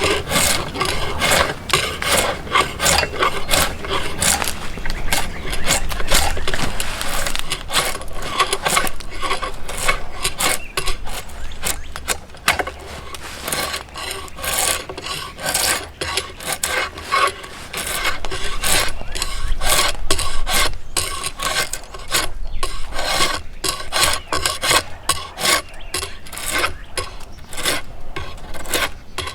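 Yew bow wood being rasped with a hand tool in quick, repeated strokes.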